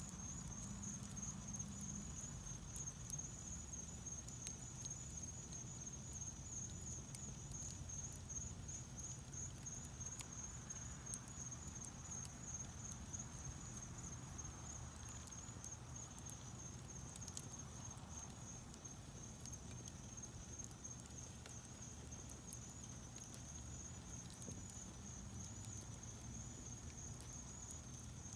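Wood fire burning in a fireplace: faint crackling with scattered small sharp pops over a low steady rumble of the flames. A faint steady high-pitched whine runs underneath.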